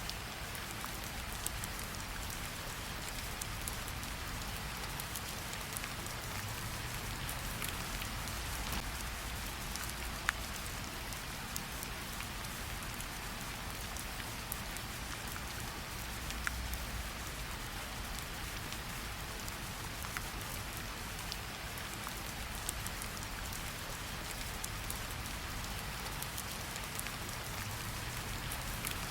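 Steady rainfall: an even hiss of falling rain with scattered sharper drop ticks and a low rumble underneath.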